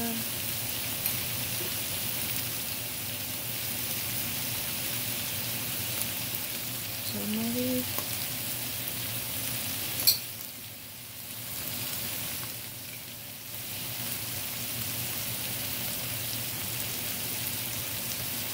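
Shredded chicken and vegetables sizzling as they fry in a pan, a steady hiss. There is one sharp click about ten seconds in, and the sizzle drops for a moment twice just after it.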